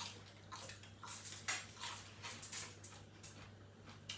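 Eating sounds: chewing and mouth clicks mixed with utensils touching a plate, coming as short, irregular sounds a few times a second.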